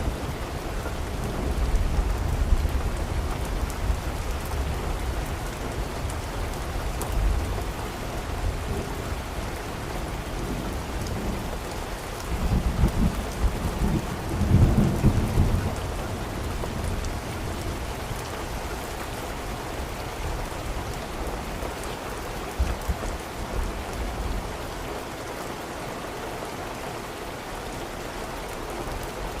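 Steady rain with rolling thunder, the heaviest rumble about halfway through, dying away to rain alone near the end.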